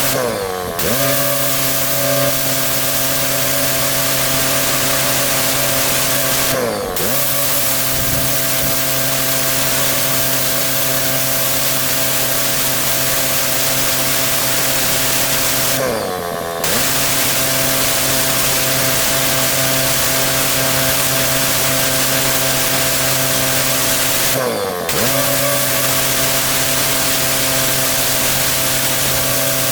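Petrol-engined pressure washer running steadily under a loud hiss of high-pressure water spraying onto block paving. Four times the spray cuts out for a moment as the trigger is let go, and the engine pitch dips and recovers.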